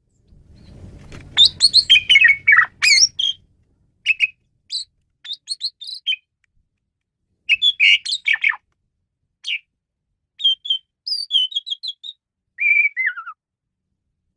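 Asian pied starling (jalak suren) singing: bursts of short, varied chirps, whistles and rattling notes separated by pauses, ending in a falling whistle near the end.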